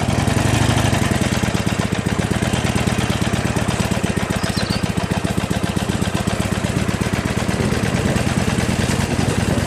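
Harley-Davidson Iron 883N's air-cooled V-twin engine running steadily, a fast, even stream of firing pulses.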